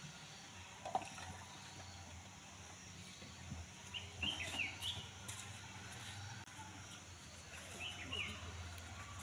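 Birds chirping in two quick runs of short chirps, about four seconds in and again near the end, over a faint steady low hum.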